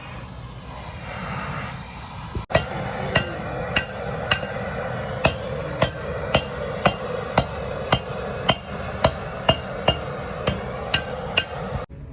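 A hammer striking metal repeatedly at about two blows a second, each blow with a short metallic ring, over a steady background noise.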